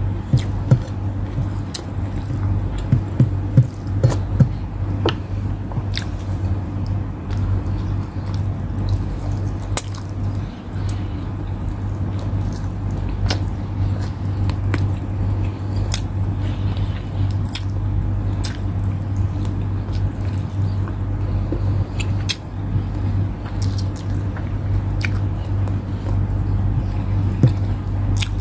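Close-up eating sounds of a person chewing and biting chicken wings eaten by hand, with scattered short lip and mouth clicks, over a steady low hum.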